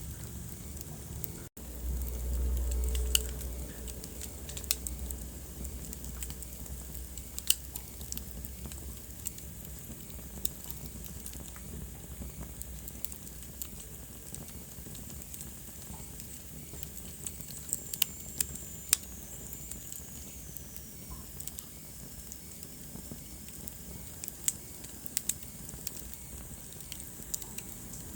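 Wood fire burning in a fireplace: irregular sharp crackles and pops over a steady low hiss. There is a low rumble a couple of seconds in, and a faint high whistle falling in pitch about two-thirds of the way through.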